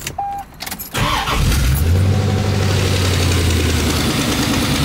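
A 1992 Chevrolet Corvette C4's LT1 small-block V8 starts about a second in, after a few clicks from the key and dash, then settles into a loud, steady idle; the low note shifts near the end. This is the engine's first start on newly fitted Hooker headers.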